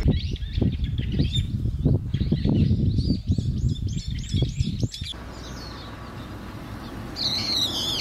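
Small birds chirping in quick repeated arched notes, with wind buffeting the microphone in low thumps for the first five seconds. After an abrupt drop to quieter outdoor air, a louder bird call comes near the end.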